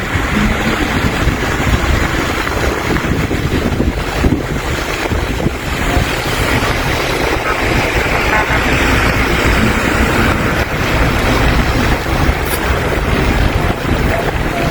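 Wind rumbling on the microphone over steady road and traffic noise, recorded in blowing winter-storm conditions.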